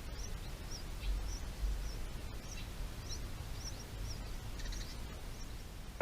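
Small birds chirping: short high calls repeating about twice a second, over a steady low rumble.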